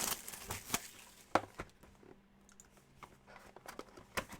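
Faint crinkling and clicking of a trading-card pack's wrapper and cards being handled, most of it in the first second and a half, quieter in the middle, with another click near the end.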